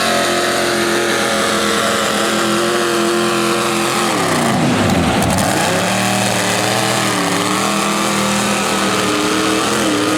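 Competition pulling tractor's engine running hard at high revs under load; about four seconds in its pitch falls sharply as it bogs, then it picks up again at lower, unsteady revs and sags once more near the end. The stumbling is a fuel delivery problem, perhaps a weak fuel pump, in the announcer's view.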